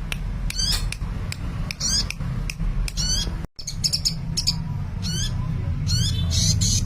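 Sunbird singing in bursts: fast, high twittering chirps and quick sweeping notes, repeated every second or so, over a steady low hum.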